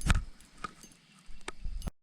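A run of sharp clicks and knocks from handling, loudest right at the start, with another cluster near the end before the sound cuts off abruptly.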